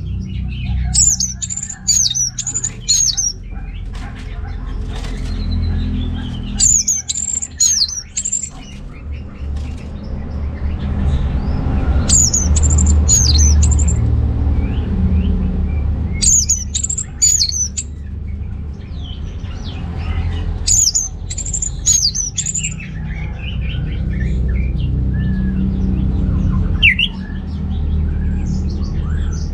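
Orange-headed thrush singing: bursts of high, rapid warbling phrases, each a second or two long, repeating every few seconds over a steady low rumble.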